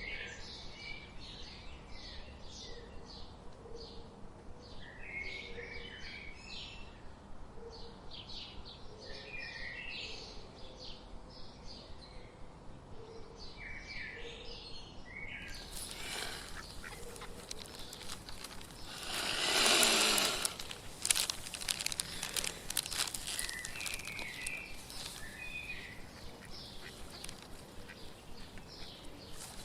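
Small birds chirping in short, repeated high calls, with faint low notes repeating underneath. About two-thirds of the way through, a loud rushing burst of noise lasts about two seconds, followed by scattered sharp clicks.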